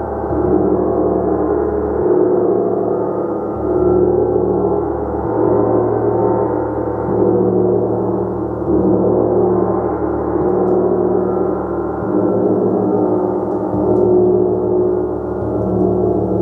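Gong played continuously in a sustained wash of overlapping tones, with the loudness swelling and easing about every two seconds as it is struck or rubbed again.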